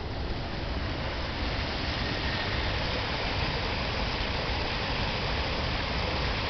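Brook swollen by heavy rainfall pouring over a small weir: a steady, even rush of falling water with a deep rumble underneath.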